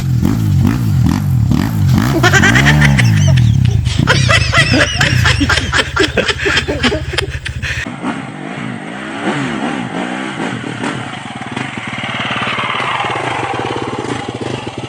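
Dirt bike engine revving up and down repeatedly while riding an off-road trail. The pitch rises and falls over and over. About halfway through, the deep rumble drops away and the engine runs on more lightly.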